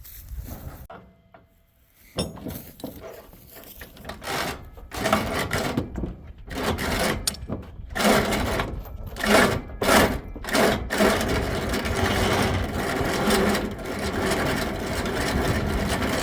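Rough, irregular scraping, crunching and creaking as a long-parked 1948 International truck is pulled loose. It starts about two seconds in and gets louder after about five seconds.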